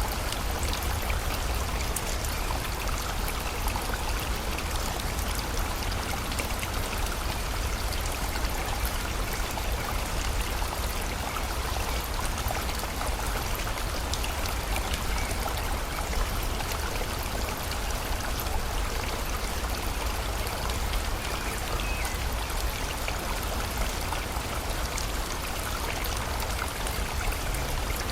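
A river rushing steadily, with rain falling and pattering throughout.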